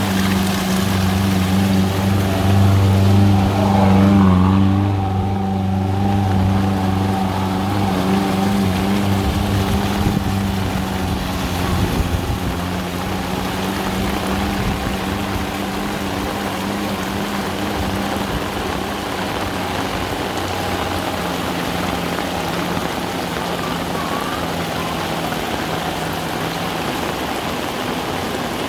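Heavy rain falling steadily, with the low, even hum of an engine under it, strongest in the first few seconds and fading out near the end.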